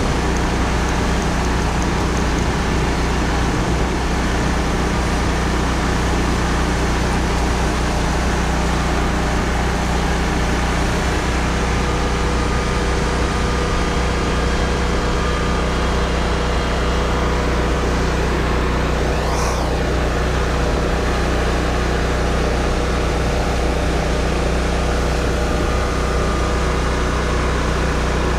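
Vehicle engine running steadily at a constant speed while being driven, with a brief sweeping sound about two-thirds of the way through.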